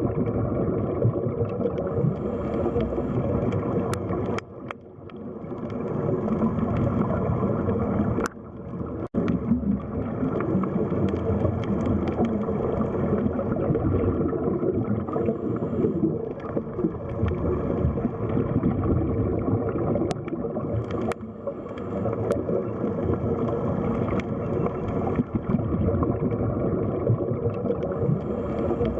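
Underwater sea ambience: a steady, rumbling, gurgling wash of water noise, dipping briefly about four and a half and eight seconds in, with a few faint clicks.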